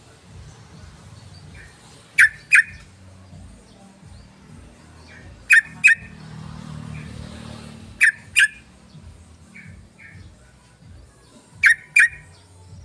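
Yellow-vented bulbul (trucukan) calling: a sharp double note repeated four times, about every three seconds, with softer single notes in between.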